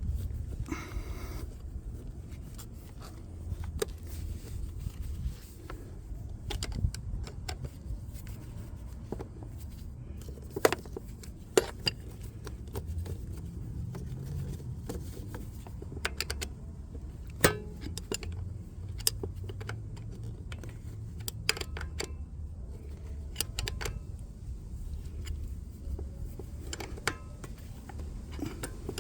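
Scattered metallic clicks and clinks of a 12 mm spanner and bolts being worked on a motorcycle battery cable, with a few sharper knocks, two close together about a third of the way in and one past the middle, over a low steady rumble.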